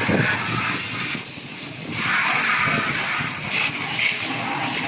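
Running water hissing and splashing, thinning briefly about a second in, with a few small knocks.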